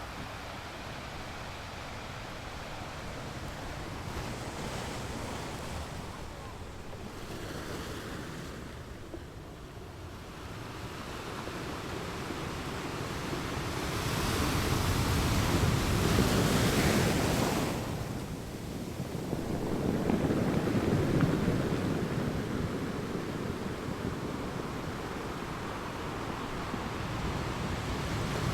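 Ocean waves breaking and washing up a beach, the surf swelling and ebbing, loudest in two surges about halfway through, with wind on the microphone.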